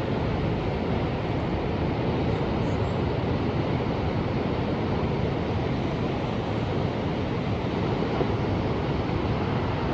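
Ocean surf: a continuous, even wash of waves with no single wave breaking out above the rest.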